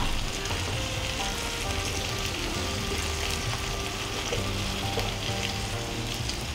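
Salmon chunks sizzling in hot oil in a nonstick frying pan, a steady crackling fry, with background music.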